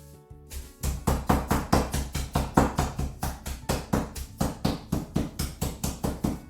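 Chicken breast wrapped in cling film being pounded flat with a tenderizing tool: rapid, regular heavy strikes, about four or five a second, starting about a second in.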